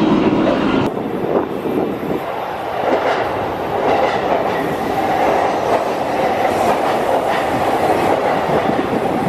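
Commuter train passing along an elevated railway viaduct overhead, a steady noise of wheels running on the rails, starting about a second in.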